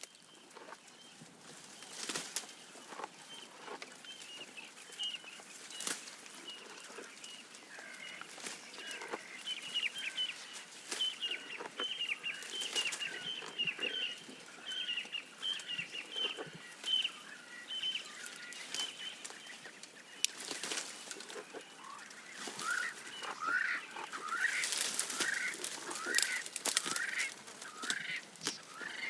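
Birds chirping in quick runs of short repeated notes, with a stretch of rising chirps near the end, over scattered sharp crackles and snaps of a giraffe tearing and chewing leaves as it browses.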